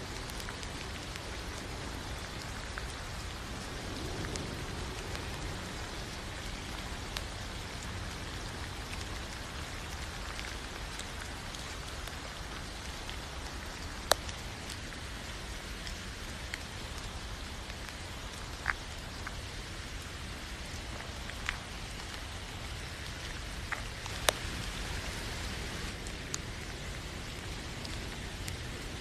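Steady rain falling, an even hiss of many drops, with a handful of sharp single drips or taps standing out above it, the loudest about halfway through and again near the end.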